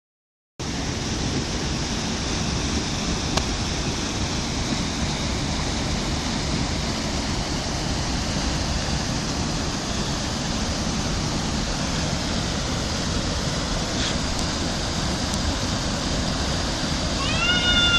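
Rushing water running steadily, a constant even roar. A short pitched call, rising then falling, comes near the end.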